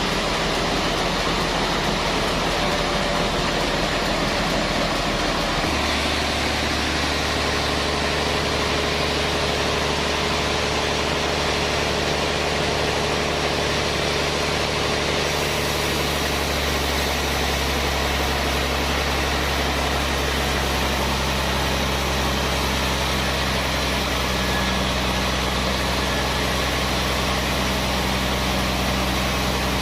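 Sawmill machinery running: a steady engine drone whose pitch shifts about six seconds in and again around sixteen seconds in.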